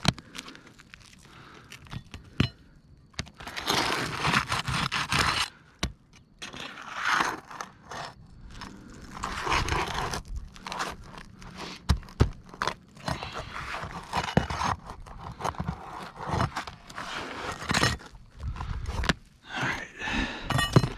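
Irregular scraping and crunching of a hand tool prying at nailed-down material to free the nails, with a few sharp knocks among the strokes.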